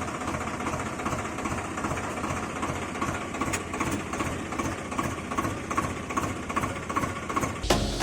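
Vehicle engine running steadily at idle with a fast, even chugging; music comes back in near the end.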